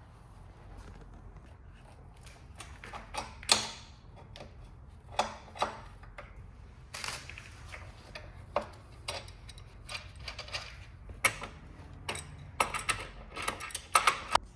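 Irregular mechanical clicks and knocks from a bicycle's rear wheel, drivetrain and tools being handled, with a sharper knock about three and a half seconds in and a quick run of clicks near the end.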